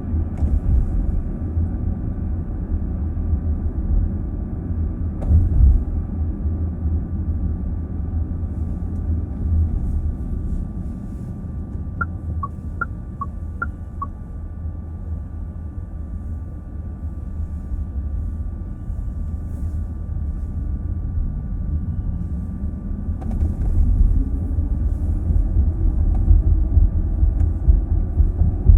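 Car interior while driving: a steady low rumble of road and tyre noise. About twelve seconds in come six short, high electronic beeps in quick alternating pairs, and near the end a drone rises in pitch as the car speeds up.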